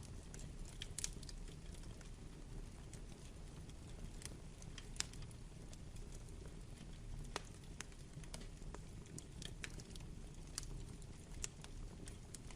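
Wood fire burning: burning logs crackling with irregular pops and snaps, a few sharper ones standing out, over a steady low rumble of the flames.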